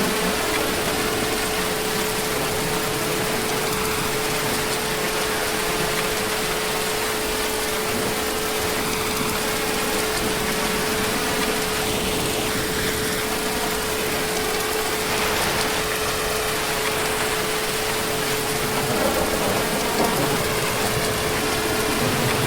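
Heavy rain falling steadily, a dense even hiss, with a thin steady tone running under it.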